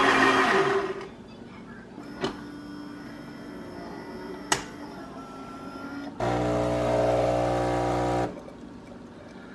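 Philips 3200 LatteGo super-automatic espresso machine running a priming cycle. A loud burst opens the sound, two sharp clicks follow, then the pump hums loudly and steadily for about two seconds before cutting off.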